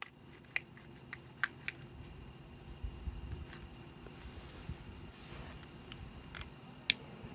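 Wood fire crackling with a few sharp pops, the loudest near the end, while insects chirp in a steady pulsing rhythm behind it.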